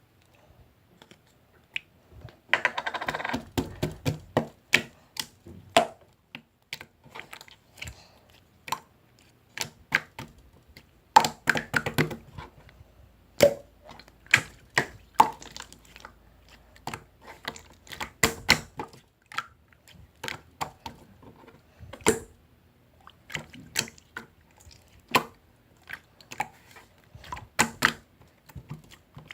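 Slime being squished and poked by hand, giving many sharp sticky clicks and pops at an irregular pace, with a denser crackling stretch a few seconds in.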